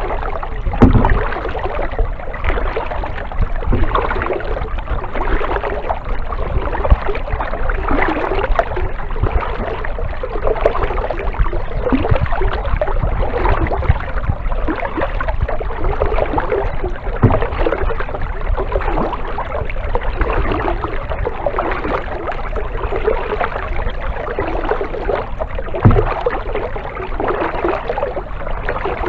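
Kayak paddle strokes through water: a steady rhythm of splashing and dripping swells, a stroke every second or two, with a few short low thumps.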